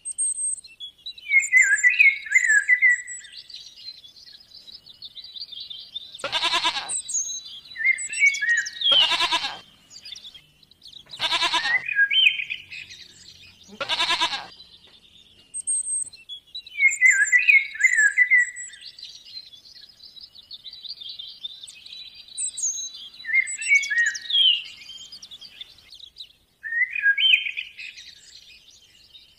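Birds calling: repeated short chirping phrases, with four loud, harsh calls about two and a half seconds apart in the middle.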